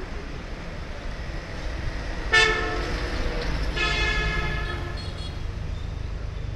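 A vehicle horn honks twice, a short sharp toot about two seconds in and a longer one of about a second just after, over a steady low traffic rumble.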